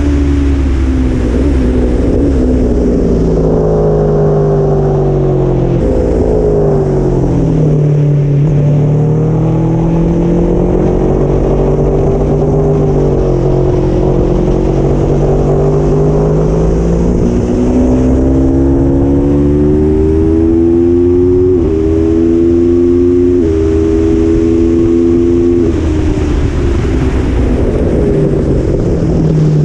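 Aprilia Tuono motorcycle engine at full track pace, heard from on the bike. The engine note climbs and falls through corners, and it changes pitch sharply several times near the end as gears are shifted.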